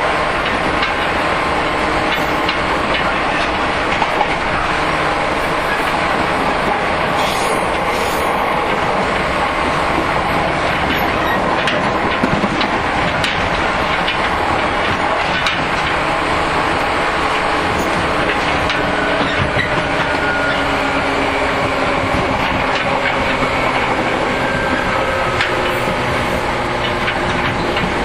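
JR 115-series electric multiple unit running, heard inside a motor car: steady traction-motor and gear hum over wheel rumble, with occasional clacks from the rail joints.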